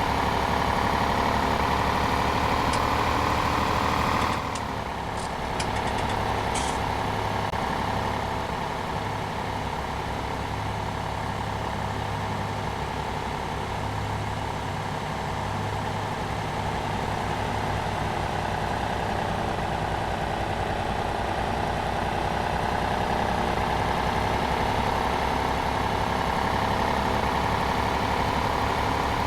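Old tractor engine, running again after standing for 28 years, idling. About four seconds in its speed drops suddenly, with a few clicks just after, and then slowly climbs back up.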